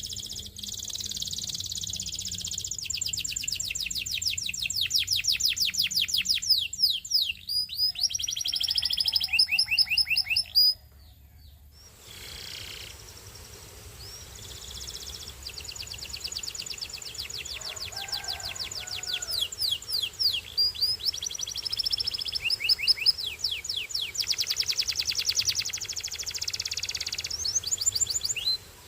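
Belgian singing canary singing long, high-pitched phrases of rapid trills and rolling runs of repeated notes, shifting from one tour to the next. The song breaks off for about a second a little before halfway, then resumes, and stops abruptly near the end.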